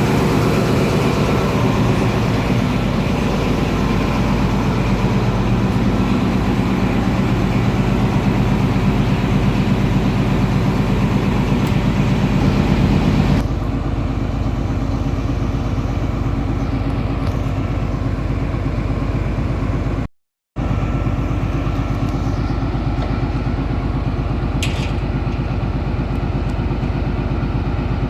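XPT diesel power car idling steadily at a station platform, a constant low engine hum. The sound steps down suddenly about halfway through and cuts out for a moment later on.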